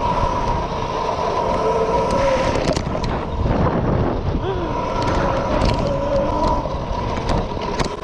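Mini bike's small engine running while being ridden off-road, its pitch rising and falling with the throttle.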